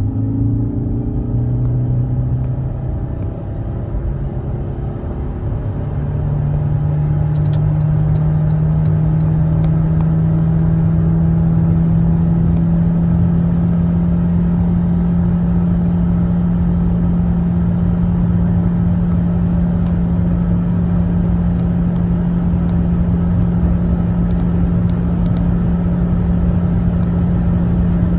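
2017 Toyota Prius Prime's 1.8-litre four-cylinder hybrid engine pulling hard under heavy acceleration, heard from inside the cabin with road and wind rumble. About six seconds in, the engine settles into one steady, unchanging drone as the car keeps gaining speed toward 100 mph, the hybrid transmission holding engine speed constant.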